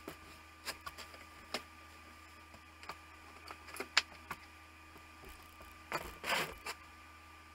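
Sparse light clicks and taps, with a brief rustling scrape about six seconds in, over a faint steady hum.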